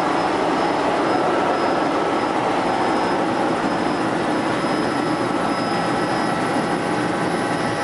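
Helicopter in flight: steady engine and rotor noise with a thin, high, even whine over it.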